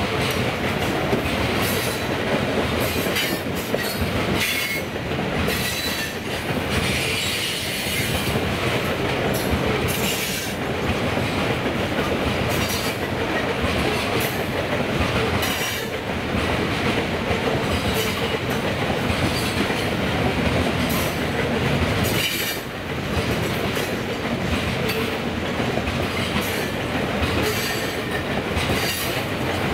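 Freight train of open-top hopper cars rolling past: a steady rumble of steel wheels on the rails, broken by frequent clacks as the wheels cross rail joints.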